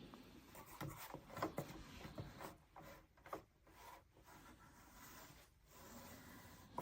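Faint handling noise: irregular rubbing and scraping with a few short knocks.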